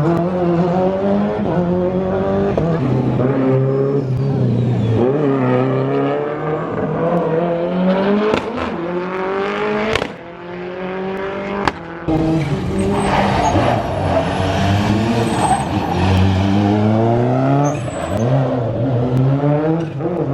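Rally car engines revving hard under acceleration, the pitch climbing and falling back again and again through gear changes, with a few sharp cracks along the way.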